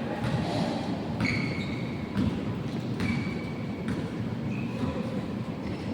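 Basketball game play: a ball bouncing on the court and sneakers giving several short high squeaks, over the noisy background of a large hall.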